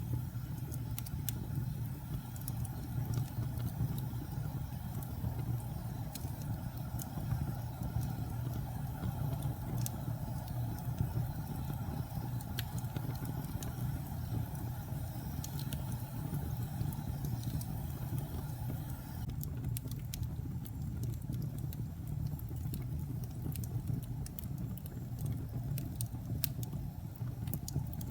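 Wood fire burning in a fireplace: a steady low rumble of the flames with scattered sharp crackles and pops, coming more often in the second half.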